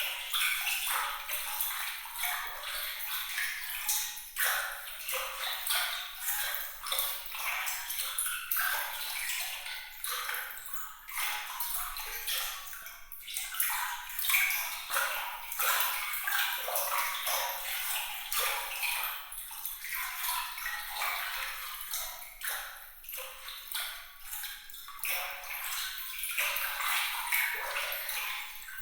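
Bright trickling water: a dense, irregular patter of small splashes and drips with a tinkling, sparkly top and no low rumble.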